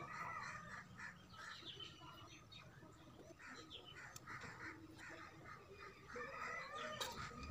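Birds calling faintly in the background: many short chirping calls, with a light click near the end.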